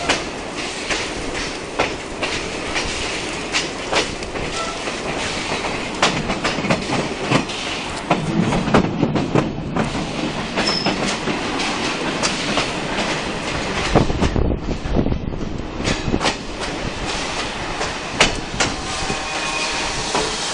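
Steam-hauled heritage railway carriage rolling along the track, heard from an open carriage window: a steady rumble of wheels with irregular clicks over the rail joints. The rumble grows heavier about eight seconds in and again about fourteen seconds in.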